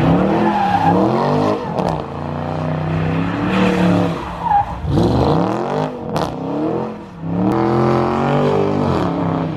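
Car engine revving hard, its pitch surging up and falling back several times, with tyre noise underneath.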